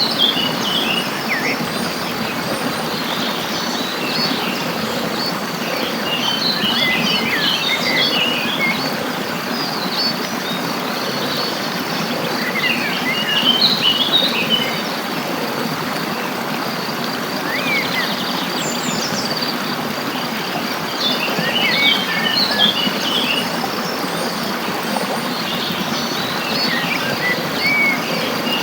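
Birds chirping and twittering in quick clusters every few seconds over a steady hiss of background noise, with a continuous high insect trill.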